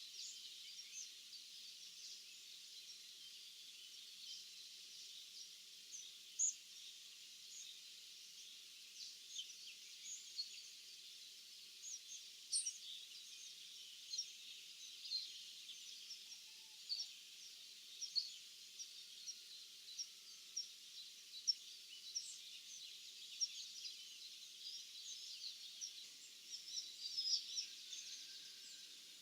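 Many small birds chirping and singing together in a dense, continuous chorus of short, high calls over a steady high hiss.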